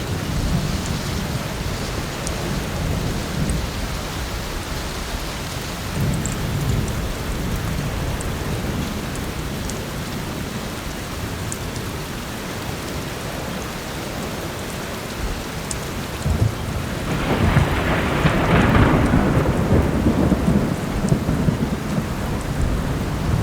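Heavy rain falling steadily with low rumbling thunder, which swells into a louder, longer roll about two-thirds of the way through. Faint scattered crackles of a wood fire sit over the rain.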